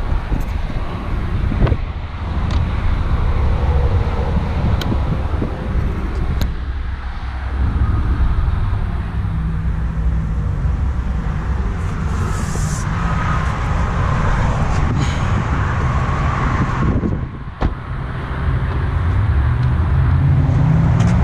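Steady road traffic noise with wind on the microphone, and a few sharp clicks in the first several seconds.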